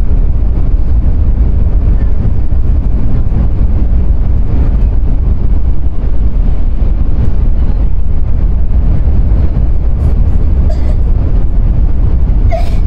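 Sanyo Shinkansen bullet train's running noise heard inside the passenger car: a loud, steady low rumble, with a few faint clicks near the end.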